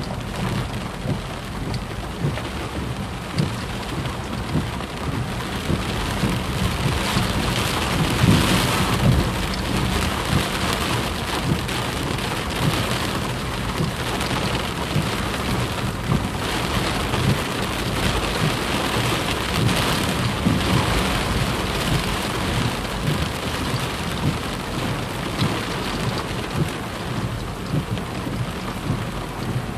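Heavy rain falling steadily, a dense patter of drops hitting a surface, swelling louder about a third of the way in and again past the middle.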